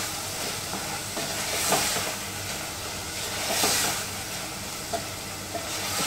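Boiled cluster beans frying in a tomato masala in an aluminium pot, stirred with a wooden spoon. A steady sizzle swells twice as the spoon sweeps through the pot.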